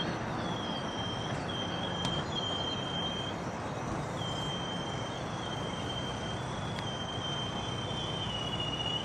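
Distant, steady rumble of the Nickel Plate Road 765 steam excursion train rolling across a long bridge. A thin high squeal breaks off and returns several times over it.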